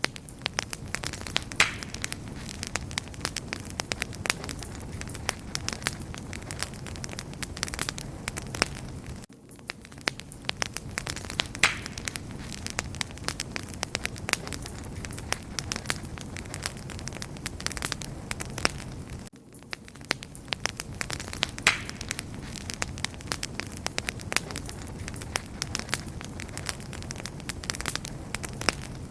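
Wood fire crackling and popping: a steady flame hiss with frequent sharp crackles. It dips briefly twice, about nine and nineteen seconds in.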